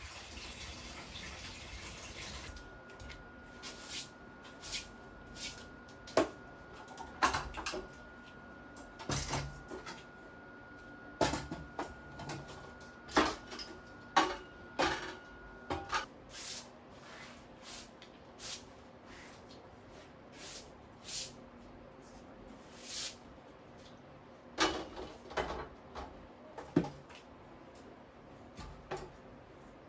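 Running tap water cuts off a couple of seconds in. Then come scattered knocks, clicks and clatters of household objects being handled and set down, some of them sharp.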